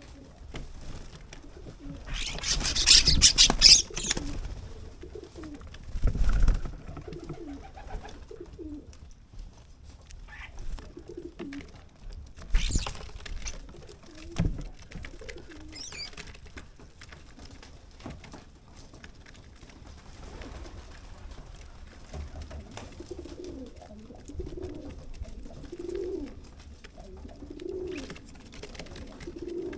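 Pigeon cooing at a garden bird feeder, a run of low repeated coos in the last third. A loud rustling flurry about three seconds in, with a few shorter bursts after it.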